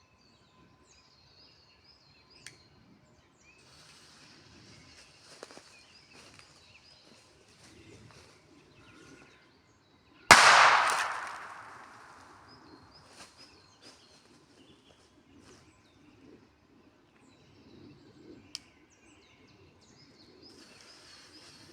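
A single firecracker going off with one sharp bang about ten seconds in, its echo dying away over a second or two among the trees. Birds chirp faintly before and after.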